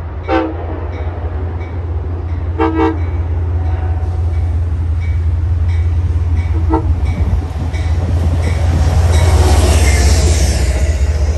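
Train passing with a deep, steady engine rumble, its horn giving two short toots in the first three seconds and a fainter one later. Wheel and rail noise builds toward the end.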